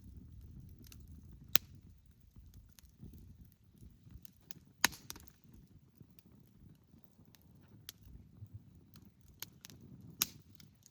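Wood campfire crackling: scattered sharp snaps and pops of burning firewood, with three louder pops about one and a half, five and ten seconds in, over a low steady rumble.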